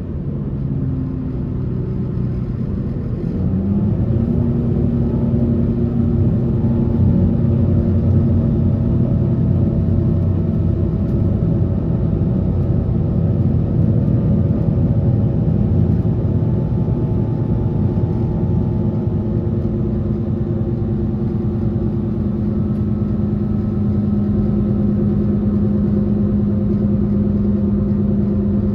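Taiwan Railways passenger train running, heard from on board: a continuous rumble of wheels and running gear under a steady hum. The hum rises in pitch about three seconds in, then holds level as the train runs on.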